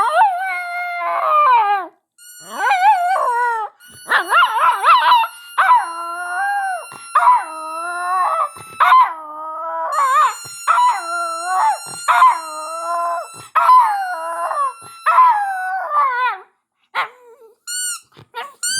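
Dog howling in a long run of wavering howls, each rising and falling over one to two seconds with short breaks between them, with a few short, high-pitched squeaky notes near the end.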